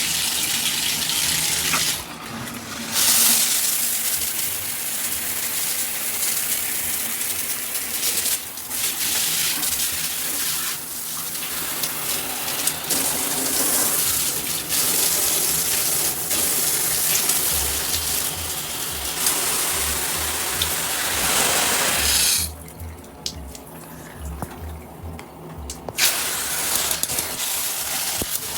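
Water spraying hard from a filtered handheld shower head, a steady rush that drops briefly several times and goes much quieter for a few seconds near the end.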